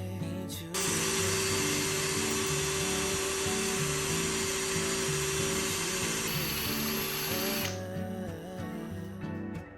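Cordless drill-driver running steadily for about seven seconds with a constant whine, its sound changing about six seconds in before it stops, over background music.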